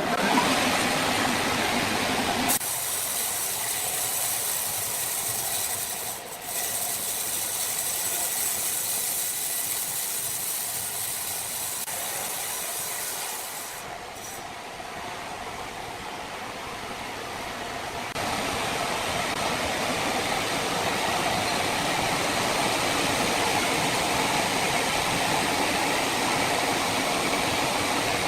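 Sawmill machinery running: a steady, hissing mechanical noise that changes abruptly about two and a half seconds in, dips for a moment in the middle and gets louder again later.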